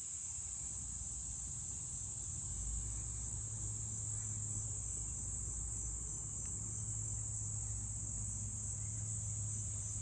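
A steady high-pitched chorus of insects such as crickets, with a low rumble underneath that grows stronger about two seconds in.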